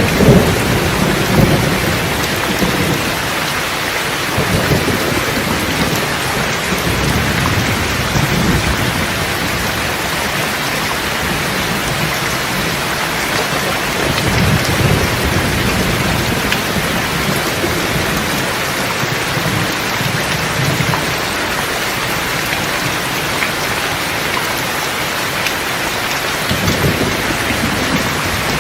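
Steady rain with rolling thunder. The low rumbles are loudest right at the start and return several more times as the rain keeps up.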